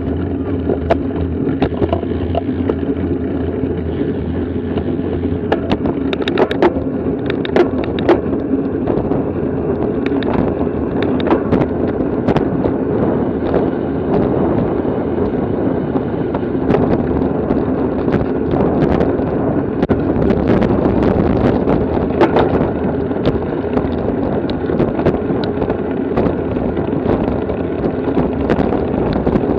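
Bicycle riding noise on a bike-mounted camera: steady wind buffeting on the microphone and rumble from tyres and drivetrain, with scattered sharp clicks and knocks.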